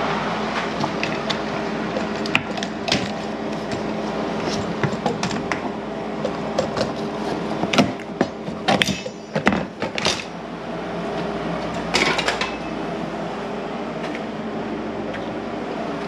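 Hand tools working on car parts: scattered metal clinks and knocks as bolts are removed, with a short burst of ratchet-wrench clicking about nine seconds in, over a steady background hum.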